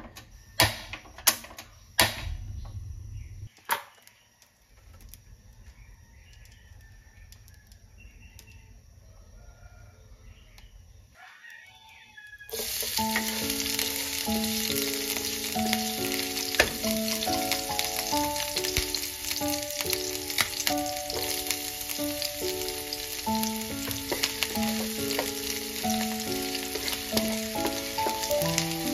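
Food frying in hot oil in a nonstick wok: a loud, steady sizzle that starts suddenly about halfway through, with light background music over it. Before it, a few sharp clicks.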